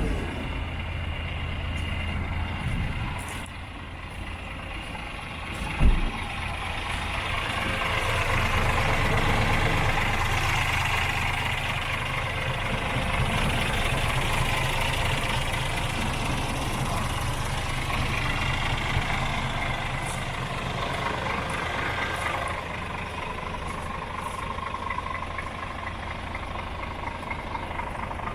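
Scania G410 tipper's 13-litre straight-six diesel running steadily at idle, with one sharp knock about six seconds in. The engine grows louder around eight seconds in, then holds there.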